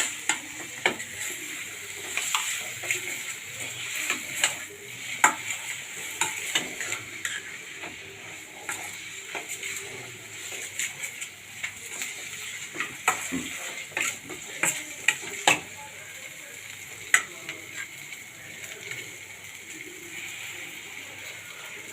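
Onions, capsicum and spice mix sizzling in a hot pan while being stirred and sautéed, with a spatula clicking and scraping against the pan at irregular intervals.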